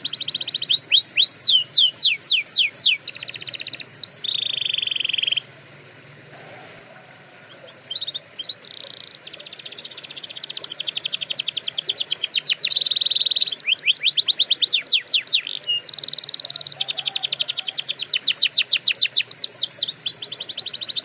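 Canary singing: long rolls of rapidly repeated notes, some phrases made of quick downward-sweeping notes and others of fast even trills, with a pause of about two and a half seconds about a quarter of the way in.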